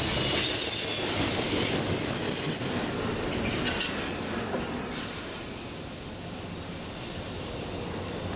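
Tail end of a double-stack intermodal freight train rolling past and away: steel wheels squealing in thin high tones over the rumble of wheels on rail. The sound fades steadily as the last cars recede.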